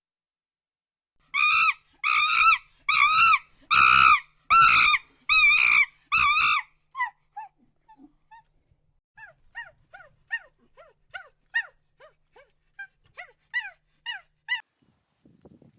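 An animal calling: seven loud, high-pitched cries in quick, even succession, then a run of quieter, short, falling yelps.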